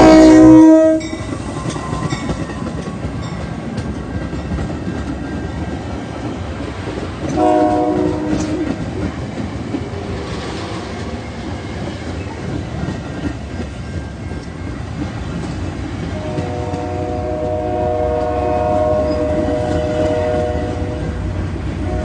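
A train's multi-tone air horn. A loud blast cuts off about a second in, then the train rolls along the rails with a steady rumble and clatter. A short horn blast comes about a third of the way through, and a softer, longer horn sounds near the end.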